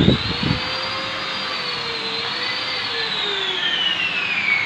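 Angle grinder polishing stainless steel: its motor whine climbs as it spins up at the start, then runs steadily over a broad rush of noise, the pitch sinking slowly near the end.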